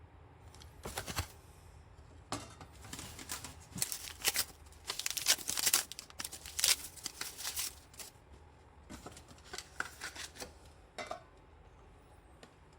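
Irregular bursts of scraping with sharp metal clicks, from hand work on the steel blades of a pair of hedge shears, busiest around the middle and tapering off toward the end.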